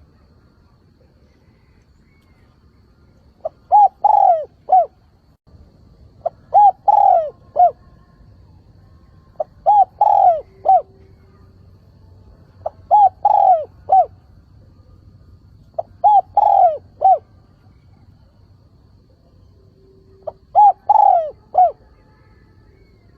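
Spotted dove cooing: six call phrases a few seconds apart, the first about three seconds in, each a short note, a longer drawn-out coo and a clipped final note. It is a decoy bird's calling song, used to draw in and provoke wild doves.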